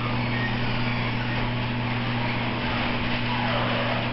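Genie garage door opener running steadily, its motor giving a constant low hum under the rattling noise of the moving door.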